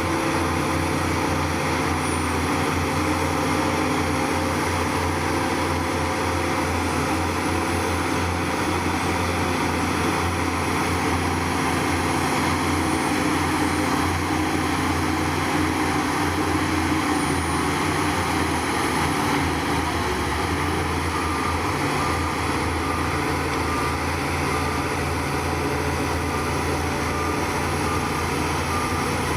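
Heavy-equipment diesel engine running steadily at a constant pitch and loudness, the kind of low drone of a bulldozer or dump truck working.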